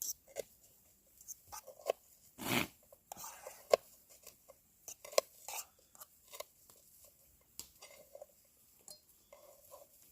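Irregular clicks, taps and scrapes of utensils against a dish or pot while eating, with one longer scrape about two and a half seconds in.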